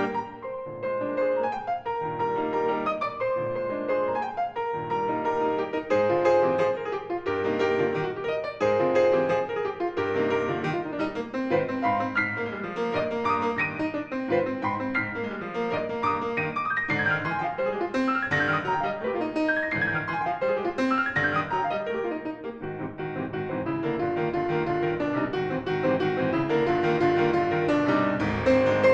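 Solo piano playing classical music, a continuous stream of notes with no break.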